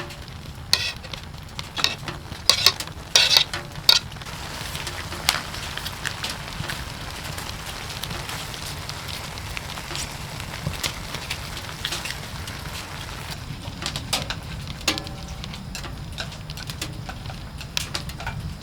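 Firewood burning in a wood stove, crackling with sharp pops, loudest in the first few seconds, over a steady low rumble.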